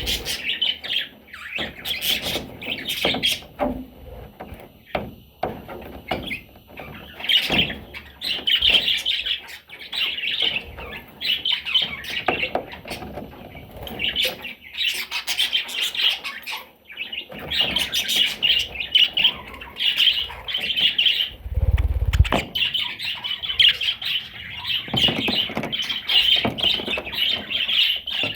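Budgerigar chattering and warbling with scattered squawks, almost without a break, plus a brief low thump a little past the middle.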